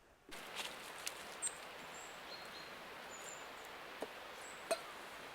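Quiet outdoor ambience with a steady background hiss and a few short, high bird chirps scattered through, plus a couple of soft knocks near the end.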